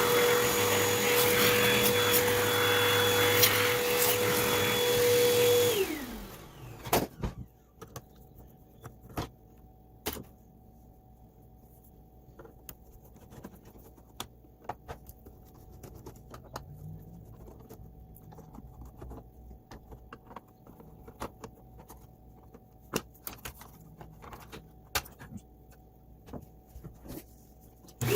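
Vacuum cleaner motor running with a steady whine, switched off about six seconds in and spinning down. Quiet clicks and knocks follow, and the motor starts again at the very end.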